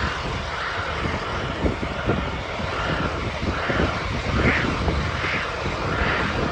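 An engine running steadily, with a whine that swells and fades roughly once a second over a low rumble.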